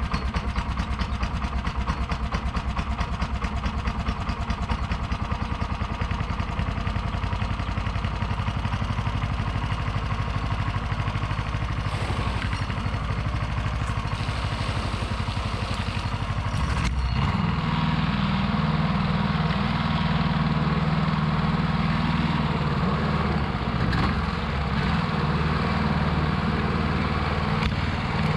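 13-horsepower longtail mud motor engine running; about seventeen seconds in it is throttled up, its note rising and getting a little louder. The owner says this engine is not running its best.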